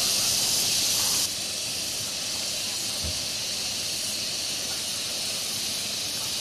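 Steady high hiss with no clear source, dropping slightly in level about a second in.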